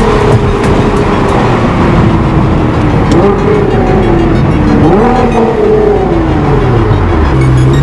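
Nissan GT-R R35's twin-turbo V6 running loud through an Armytrix valved exhaust, its pitch falling steadily with two quick rises, about three and five seconds in, and a rise again near the end.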